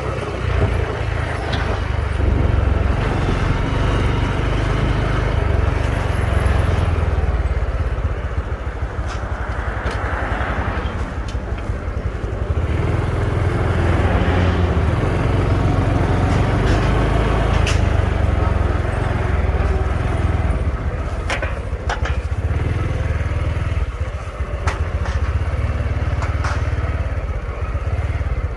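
Honda Trail 125's single-cylinder engine running on the move, under heavy wind rumble on the microphone. There are a few sharp clicks and rattles in the second half.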